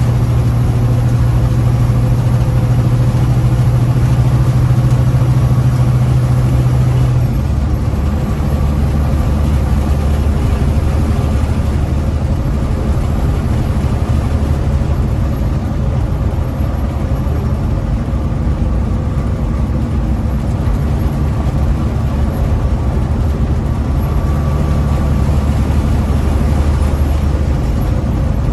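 Big rig's diesel engine running steadily with a low drone, its pitch dropping to a lower note about seven seconds in.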